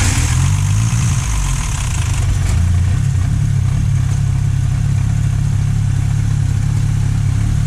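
FPV F6's turbocharged 4.0-litre inline-six running at idle just after being restarted, with a hiss that fades out over the first couple of seconds. The engine is struggling to hold idle and has logged a camshaft position timing over-advance code, which the owners take for a timing-chain tooth that has skipped.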